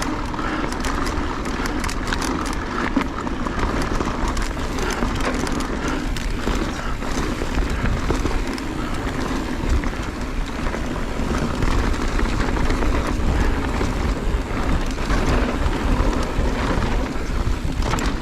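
A mountain bike descending a rocky trail at speed: tyres rolling and skittering over rock and dirt, with the bike rattling, and wind rushing over the microphone as a steady low rumble.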